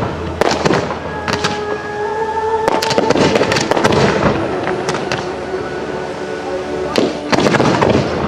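Aerial fireworks shells bursting in rapid clusters of sharp bangs: about half a second in, again from about three to four seconds in, and once more near the end.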